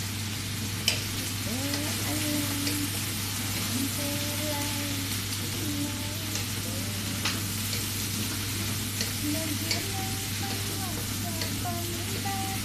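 Chicken frying: a steady sizzle with scattered pops and crackles, the sharpest about a second in.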